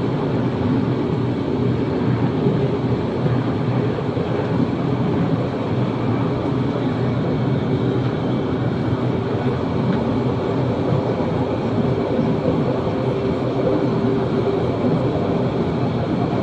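Steady running noise of a narrow-gauge train carriage riding along the track: an even wheel-and-rail rumble with a faint steady hum.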